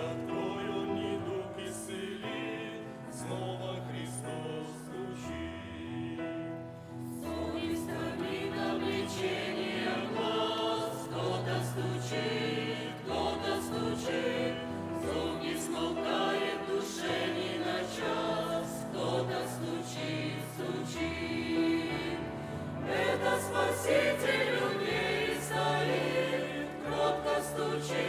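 Church choir singing a Christian hymn with a low accompaniment, the music growing fuller about seven seconds in and again near the end.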